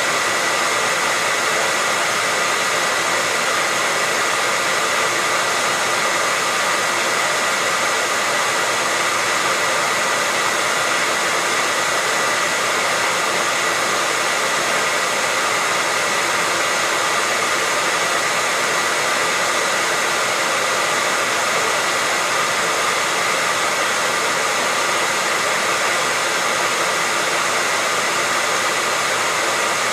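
Electric hair dryer running steadily on one setting: a continuous rush of blown air with a steady high whine from the fan motor.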